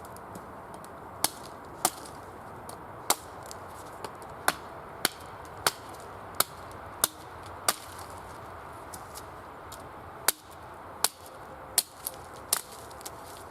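A series of sharp knocks, one strike about every two-thirds of a second, stopping for a couple of seconds and then starting again near the end: someone striking repeatedly while building a camp.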